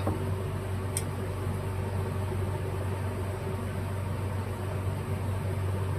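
Steady low machine hum, like a running fan, with a faint tick about a second in.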